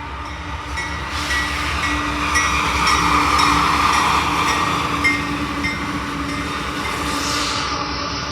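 Freight train rolling past, its wheels clicking at a regular beat over a steady rumble. It grows louder to about three or four seconds in, then eases.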